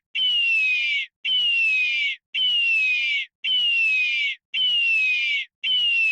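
An animal's whistled call: a single note falling steadily in pitch over about a second, repeated about once a second with short silences between.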